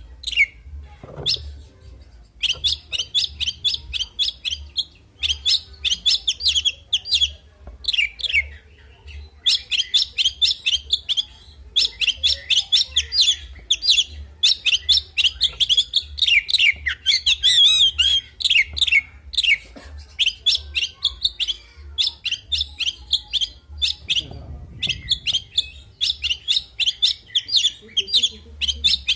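Male oriental magpie-robin (kacer) singing in full fighting mood: phrase after phrase of fast, varied chirps, trills and whistles packed with mimicked calls, broken by short pauses.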